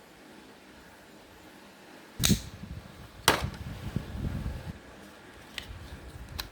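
Two sharp knocks about a second apart, then lighter rattling and two small clicks near the end: an old plastic toy or mini fan being struck and broken open.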